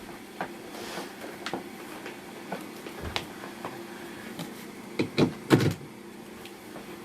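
Scattered plastic clicks and knocks of a bagless upright vacuum cleaner being handled, its mains cable being unwound from the side hooks, with a cluster of louder knocks about five seconds in. The motor is not running.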